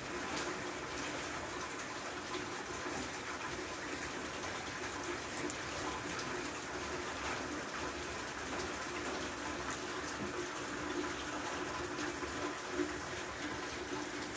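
Steady rain falling on a flooded paved yard and pattering into the standing water, with a few sharper drop ticks now and then.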